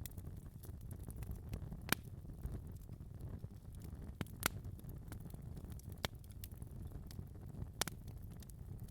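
Wood fire crackling in a fireplace: a low steady rumble of flames with a handful of sharp pops scattered through, the loudest about halfway.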